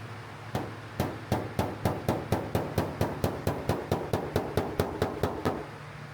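A hammer tapping rapidly on a steel car door panel, about twenty quick, even strikes at roughly four a second, over a steady low shop hum.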